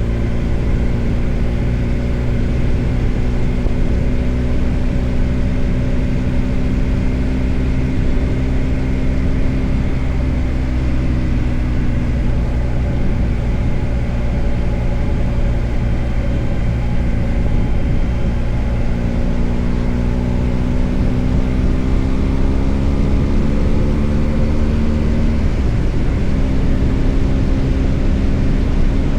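BMW R 1250 GS Adventure's boxer-twin engine running steadily under way, its pitch drifting gently up and down, with a brief dip and shift in pitch near the end.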